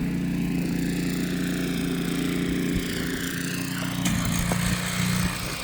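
Snowblower's small petrol engine running steadily at a constant speed.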